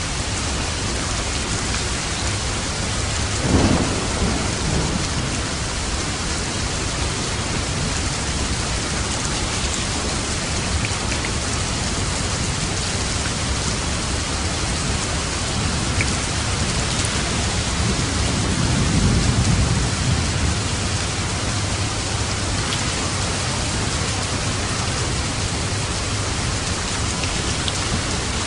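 Steady rain falling, with a sudden clap of thunder about three and a half seconds in and a longer low rumble of thunder around twenty seconds in.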